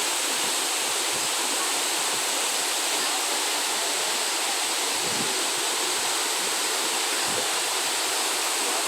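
Waterfall: water falling and splashing with a steady, even rush.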